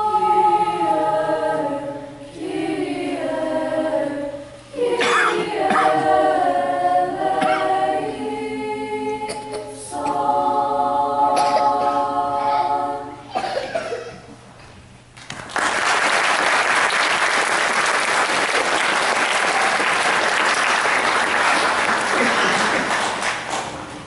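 School choir singing in several voice parts, closing the piece on a held chord about 13 seconds in. After a short pause the audience applauds steadily for about eight seconds.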